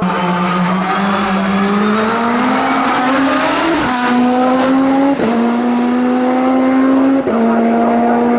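Race car engine at full throttle climbing a hill. Its pitch rises steadily and then drops sharply with upshifts about four, five and seven seconds in.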